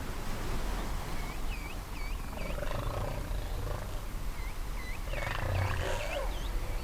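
Whale song heard underwater: a string of short, high, swooping squeaks, with two longer, lower calls, one about two and a half seconds in and one about five seconds in. A steady low rumble of the sea runs underneath.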